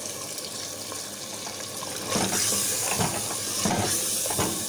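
Chicken masala sizzling in a clay handi as a wet ground onion-and-yogurt paste is stirred into the hot oil with a wooden spoon. The hiss gets louder about two seconds in, with a few knocks and scrapes of the spoon against the pot.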